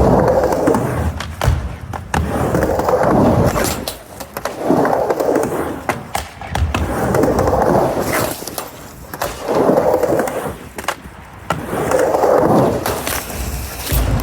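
Skateboard riding back and forth on a mini ramp: a swelling rush of wheel noise about every two seconds as the board passes through the bottom. Sharp clicks and knocks come in the quieter moments between passes.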